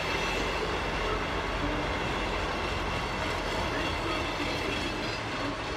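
EMR Regional diesel multiple unit passing on the far track: the steady running noise of its engine and its wheels on the rails.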